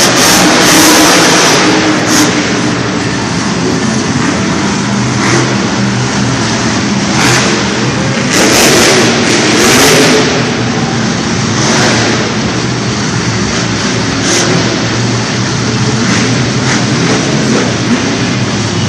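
Monster truck engines running and revving loudly, with several swells of louder revving about seven to ten seconds in.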